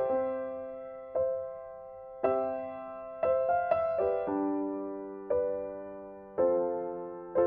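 Background music: slow, gentle piano chords, a new chord struck about once a second and left to fade.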